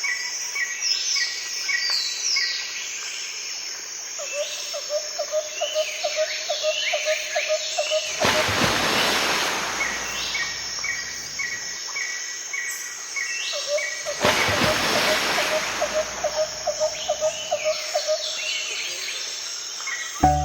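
Outdoor birdsong ambience: many birds chirping and calling in short repeated notes. A rapid low trill runs for a few seconds twice. Two rushing swells of noise, each lasting about two seconds, come about eight and fourteen seconds in.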